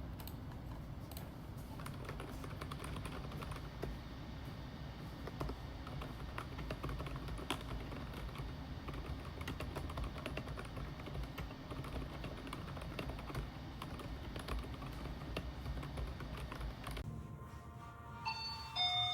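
Typing on a computer keyboard: a fast, irregular run of key clicks over a low steady hum. Near the end the typing stops and a few short, bright pitched notes sound.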